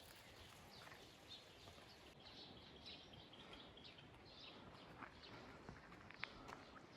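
Faint birds chirping over quiet outdoor background noise, with a few light ticks near the end.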